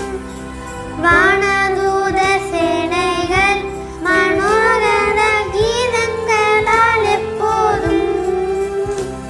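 A song: a high, childlike singing voice carries a melody over a steady instrumental accompaniment, in phrases with short breaks about one and four seconds in.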